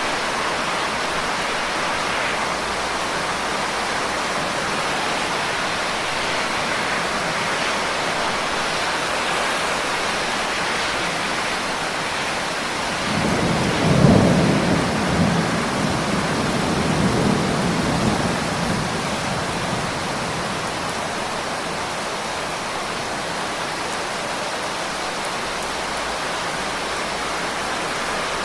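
Steady, heavy rain falling, with a roll of thunder about halfway through that swells suddenly, rumbles for several seconds and fades back into the rain.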